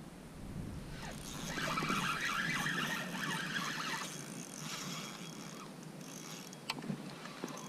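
Fishing reel being cranked, its gears giving a fast whirring clatter that swells about a second in and fades after a few seconds. A few sharp clicks follow near the end.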